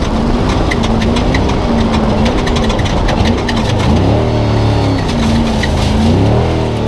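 Spec Trophy Truck's race engine heard onboard, its revs rising and falling again and again as the throttle is worked. Short clattering knocks and rattles come through the middle.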